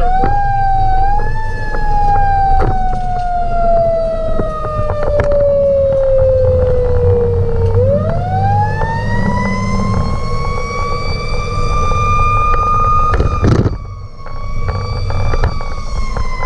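Fire engine siren wailing: a slow falling tone, then a long rise to a higher pitch, a brief break about thirteen seconds in, and another slow fall, over the truck's low engine and road rumble.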